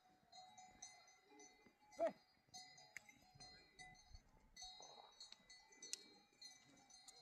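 Faint tinkling and ringing of livestock neck bells on a grazing herd, with one short bleat about two seconds in.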